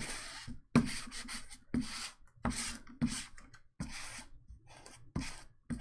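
Trading cards being handled: a series of short, irregular sliding and rubbing strokes of card stock against other cards or the table, about eight in all.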